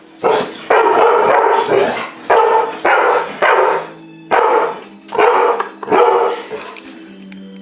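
Dog barking repeatedly and agitatedly at a vacuum cleaner: about nine loud barks in six seconds, then it stops. A steady hum runs underneath.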